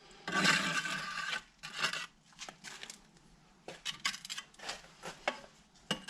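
Scraping on brick: one long scrape of about a second, then a run of shorter, irregular scraping strokes.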